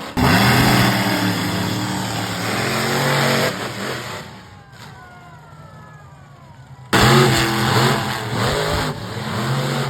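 Monster truck engine revving loudly, its pitch rising and falling; it drops away about three and a half seconds in to a quieter stretch of engine sound with pitch glides, then comes back loud abruptly about seven seconds in.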